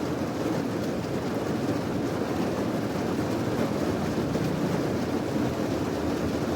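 Steady rain: a continuous, even hiss that does not change.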